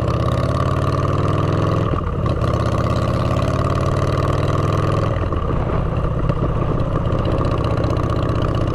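Motorcycle engine running through aftermarket exhaust pipes while riding, the revs climbing and breaking off about two and five seconds in, as at gear changes.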